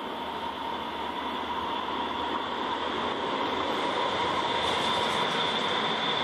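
Electric commuter train running along an overhead-wire line, approaching and passing close, its rumble slowly growing louder with a steady high-pitched whine over it.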